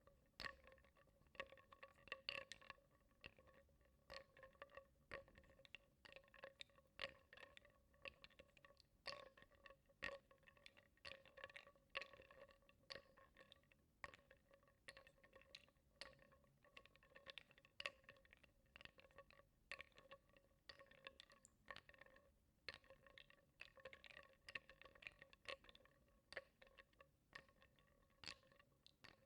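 Wooden blocks stirred in water in a bowl, knocking and clicking against each other and the bowl in soft, irregular taps, several a second, over a faint steady ringing tone.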